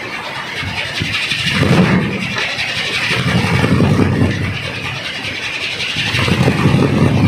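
Large kolecer, a Sundanese wind rotor, spinning in the wind with a loud, throbbing low whir that swells and eases every couple of seconds.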